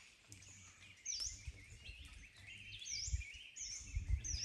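A bird calling over and over, roughly once a second, each call a quick high dip and rise in pitch with a buzzy trail, over an irregular low rumble.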